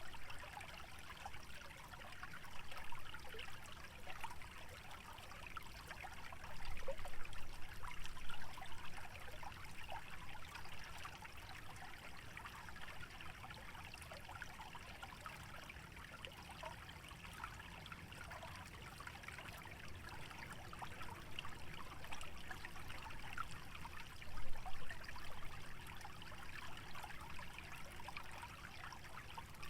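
Shallow stream trickling and babbling steadily through a wetland, with a couple of brief swells in level.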